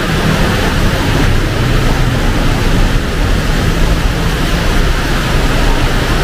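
Heavy rain pouring down steadily, with a low hum of traffic engines underneath.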